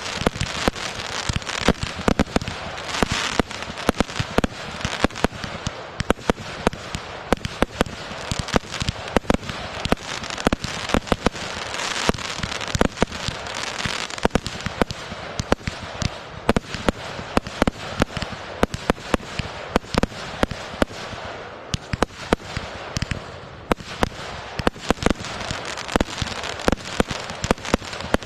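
Fireworks going off in rapid succession: many sharp bangs each second over a steady crackling hiss.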